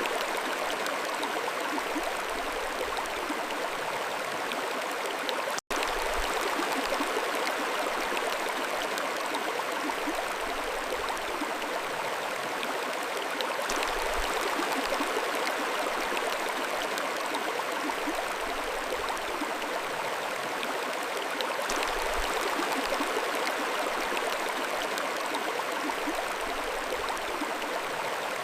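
Mountain stream flowing steadily, a continuous even rush of water, with a momentary dropout to silence about six seconds in.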